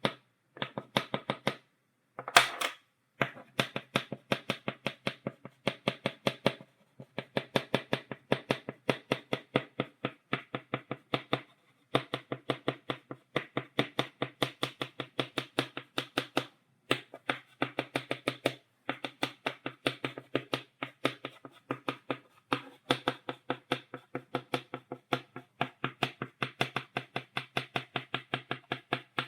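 Chalk stick tapping rapidly on a blackboard, stippling dots: quick sharp taps, several a second, in runs broken by short pauses. One louder tap comes about two seconds in.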